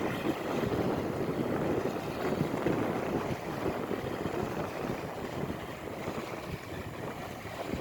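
Wind buffeting the microphone over the wash of small sea waves on a sandy shore, a steady rushing noise with no engine or voices, easing slightly near the end.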